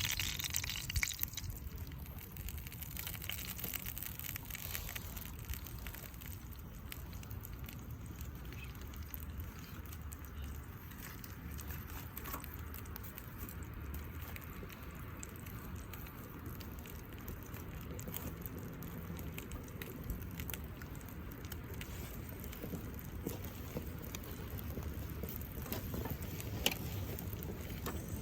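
Food sizzling in a skillet over a campfire, a steady frying hiss with scattered small pops and crackles.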